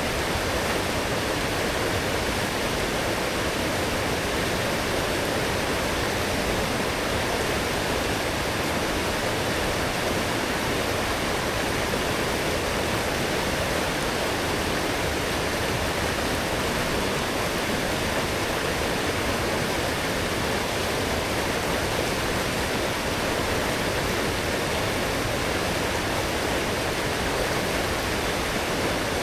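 A strong forest stream running high after heavy rain: steady, unbroken rushing of water.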